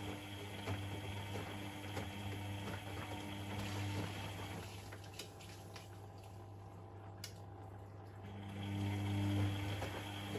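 Privileg Sensation 952 S top-loading washing machine running, with water rushing and a pump humming steadily. About halfway through, the hum and the water noise drop away for roughly four seconds, with a few clicks, then start up again.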